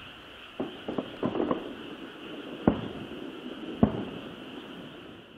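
Distant fireworks shells bursting: a cluster of muffled bangs about a second in, then two sharper booms about a second apart, over a steady chorus of frogs.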